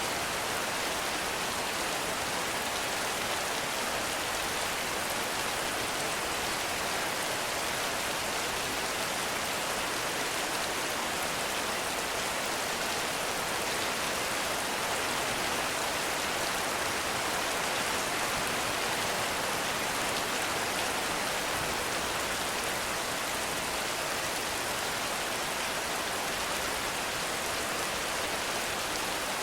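Heavy rain falling steadily in a forest, an even, unbroken hiss of rainfall.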